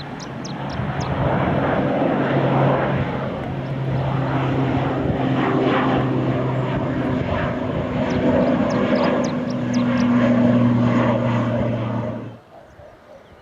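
Airliner engines running loud and steady at close range, building over the first couple of seconds, then cutting off abruptly near the end. Small birds chirp over the engine noise.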